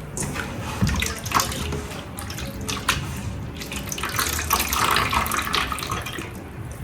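Water running and splashing, with a few sharp clinks.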